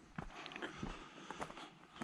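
Footsteps of a hiker on a woodland trail: a handful of short, uneven crunches and clicks underfoot.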